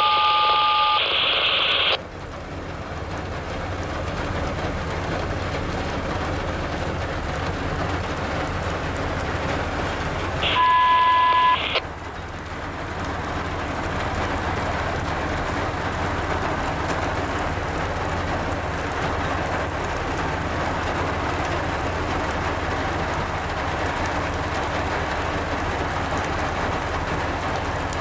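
Steady rain noise with a low hum underneath. Two short bursts of steady electronic-sounding tones break in, one at the very start and one about ten seconds in, and each cuts off abruptly.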